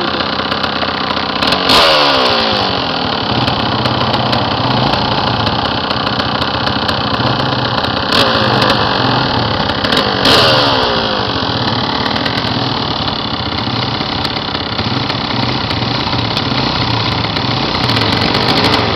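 Dirt bike engine running steadily. Three times, about two, eight and ten seconds in, it gets suddenly louder and its pitch then slides down.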